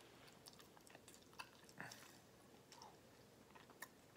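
Faint chewing of a soft mouthful of squirrel meat and rice, heard as scattered small wet clicks of the mouth over near silence.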